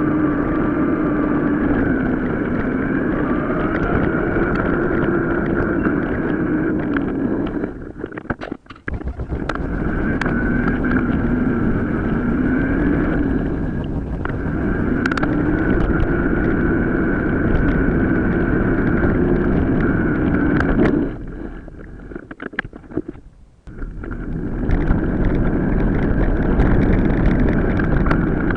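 Ride noise from a camera on a moving mountain bike: a steady whine that rises and falls, over wind rumble and tyre noise, easing off briefly twice.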